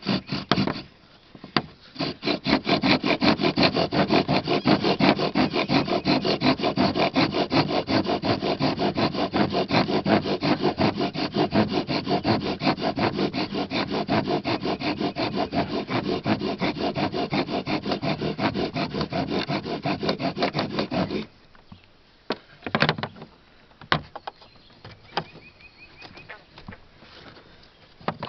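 Bow drill in use: the wooden spindle rubbing in the fireboard with each fast back-and-forth stroke of the bow, in an even rhythm for about twenty seconds, then stopping abruptly. A few knocks follow.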